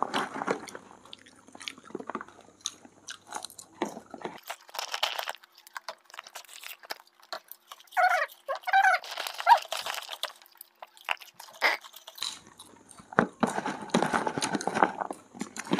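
People chewing and crunching mouthfuls of masala popcorn, with irregular crisp crunches and clicks.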